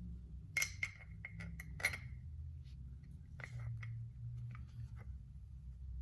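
Small metal parts of an Andis Master clipper clicking and clinking as they are handled and fitted together: a quick run of sharp, lightly ringing clicks in the first two seconds, then a few more around the middle.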